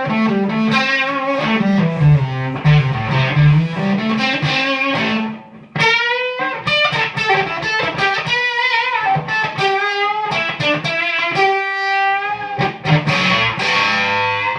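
Electric guitar (Gibson SG) played through an Octavia-clone octave-up fuzz pedal, fuzz turned down and octave on, into a clean '87 Laney AOR 30 valve combo. A riff walks down and back up, then breaks off briefly about five and a half seconds in. A higher lead line with bent notes follows.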